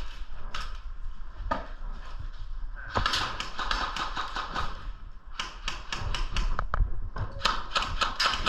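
Airsoft guns firing: rapid strings of sharp clicks and snaps, one string starting about three seconds in and another about halfway through.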